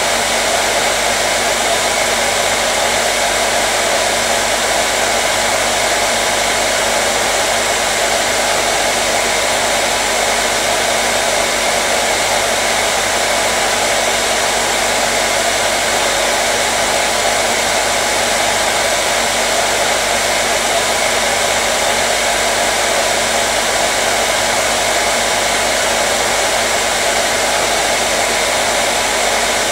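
Hair dryer running steadily, a constant airy whoosh with a faint hum from its motor, played as continuous white noise to soothe a baby.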